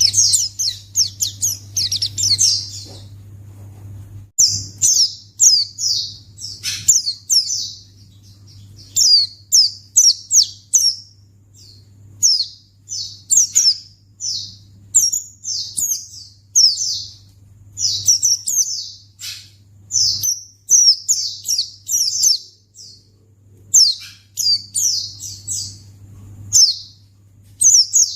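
White-eye (pleci) singing: rapid runs of high, sweeping chirps in bursts of one to two seconds, separated by short pauses. A low steady hum runs underneath.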